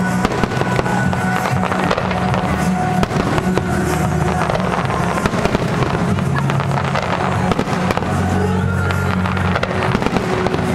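Fireworks going off in a dense barrage of bangs and crackles, over music with long held notes.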